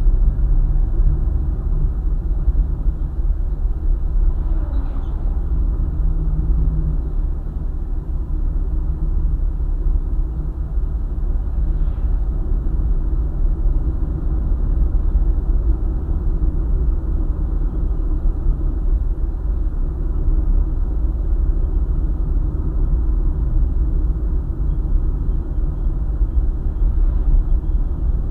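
A car driving along a highway: steady low road and engine rumble with no change in speed.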